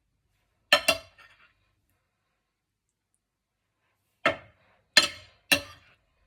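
Dishes and kitchen utensils clinking: a quick double clink, then three more sharp clinks about half a second apart near the end.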